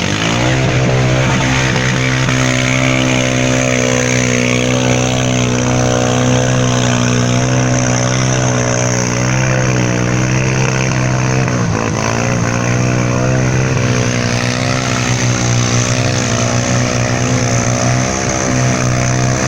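Single-cylinder four-stroke dirt bike engine running under steady throttle on a trail ride. Its pitch dips briefly about twelve seconds in, then picks back up.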